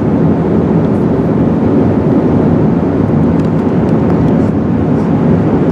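Steady cabin noise inside an Airbus A380 on approach: a constant rush of airflow and engine drone, with flaps set to 2.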